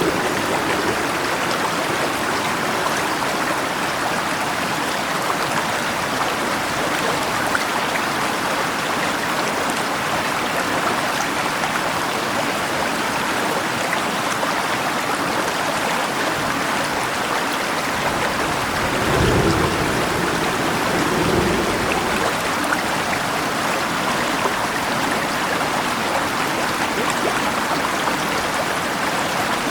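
Steady rushing of a river under rain: an even, unbroken wash of water noise. About two-thirds through, two brief low swells rise and fade.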